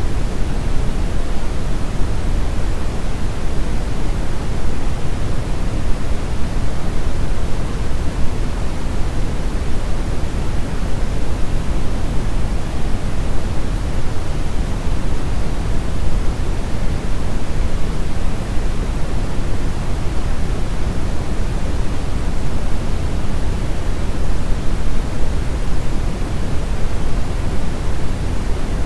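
Steady brown noise: an even, deep rushing hiss, strongest in the lows and falling away toward the highs, with no changes or events.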